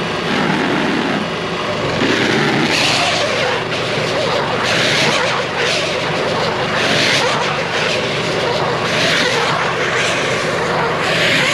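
Honda engine of a Goweil bale wrapper running steadily, with a rushing noise that swells and fades about every two seconds.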